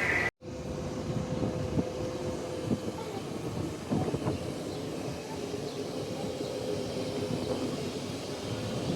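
Steady rumbling background noise with a faint steady hum and a few soft knocks. The sound cuts out for a moment shortly after the start.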